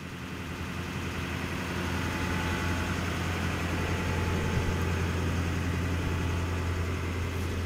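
Toyota Land Cruiser 150 Series engine idling steadily, fading in over the first couple of seconds, while its alternator charges the batteries.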